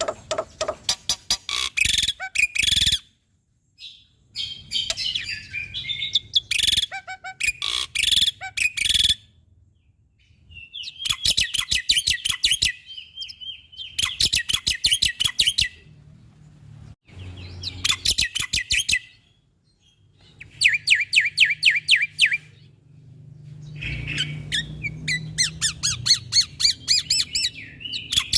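Jalak putih (black-winged myna) singing in loud bouts of rapid, sharply repeated chirps and harsher scratchy notes. Each bout lasts a couple of seconds, with short pauses between them.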